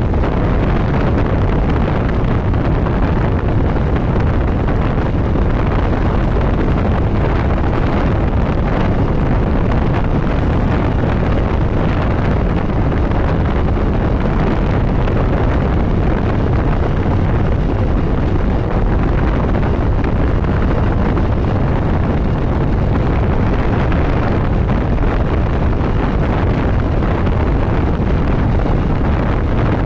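Steady wind rush on the microphone of a motorcycle moving at highway speed, mixed with the bike's running and road noise, loud and unbroken throughout.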